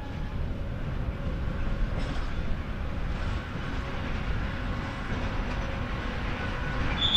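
A train rolling past on the rails, a steady rumble of wheels with a brief high squeal near the end.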